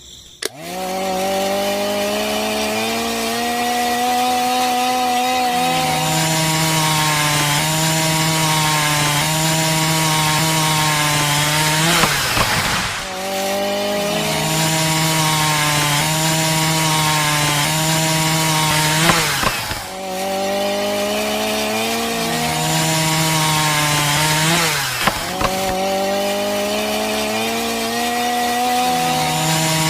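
A small motor running with a steady whine. Its pitch steps down and holds every several seconds, and it drops sharply and briefly fades twice, about 13 and 20 seconds in, before picking up again.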